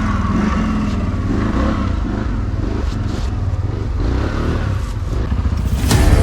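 ATV engine running and revving unevenly as the quad is driven slowly over tussocky ground. Near the end a louder, fuller sound comes in abruptly.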